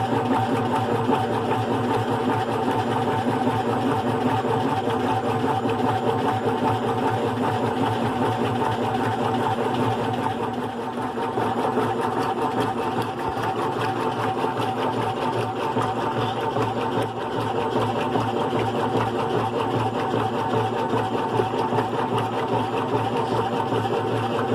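GE Profile top-load washing machine running on its single-speed motor: a steady mechanical hum with a fast, even rattle.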